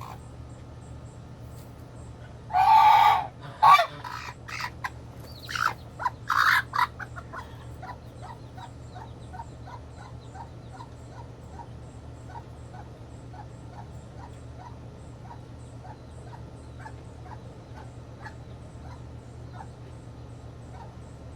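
Goose honking loudly several times in the first few seconds, then a long run of soft, evenly spaced peeps from small birds.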